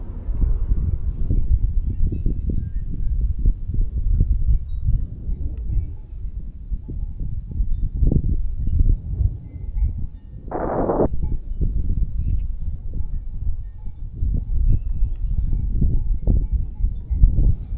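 Wind buffeting the microphone in uneven gusts. A faint, steady high-pitched whine runs throughout, and a brief noisy burst comes about ten seconds in.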